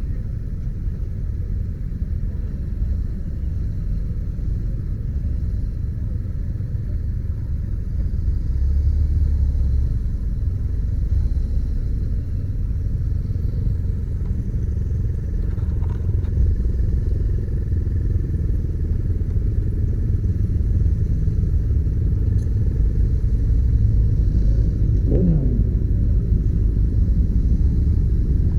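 A motorcycle on the move: a steady, heavy low rumble of engine and road, with a brief falling tone about 25 seconds in.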